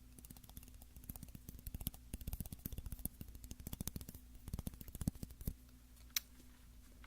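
Rapid, irregular light clicks and taps, fingernails tapping on a shoehorn, in quick flurries, ending with a single sharper click.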